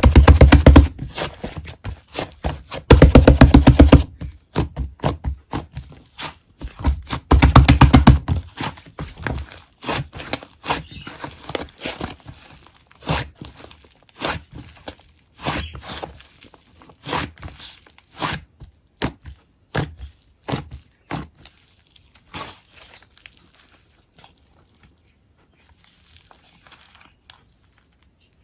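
Irregular sharp clicks and knocks, with three loud bursts of rapid rattling strokes in the first eight seconds, growing sparser and fainter toward the end.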